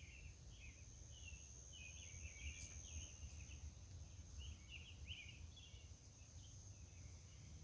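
Faint outdoor night ambience: a steady high-pitched drone with irregular short chirps through it, over a low rumble.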